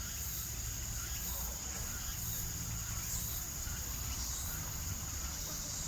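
Steady, high-pitched chirring of insects, over a low, even hum from native honeybees working at the hive entrance.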